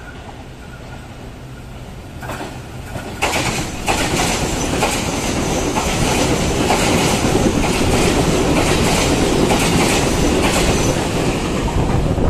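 Train passing close by: after a quiet start, the rumble and clickety-clack of the wheels over the rail joints build up in steps from about two seconds in and stay loud.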